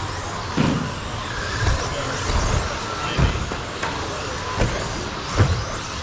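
A field of 13.5-turn brushless electric RC stadium trucks racing on a carpet track: a dense whirring hiss of motors and tyres, with a handful of short low thuds and some brief rising whines as trucks accelerate.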